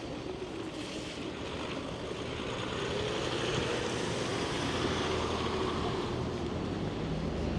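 Road traffic noise: a steady rushing rumble that grows gradually louder as a vehicle approaches.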